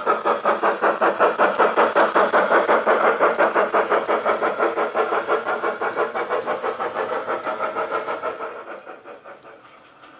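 Steam-locomotive exhaust chuffs from a model Hogwarts locomotive's DCC sound decoder, a fast even beat of about six chuffs a second. Near the end the chuffing fades away, leaving a faint hiss.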